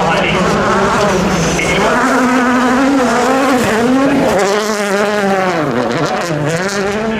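A 2017 World Rally Car's turbocharged 1.6-litre four-cylinder engine revving hard at stage speed, its pitch climbing and dropping repeatedly as the driver shifts and lifts, with two deep drops in revs in the second half.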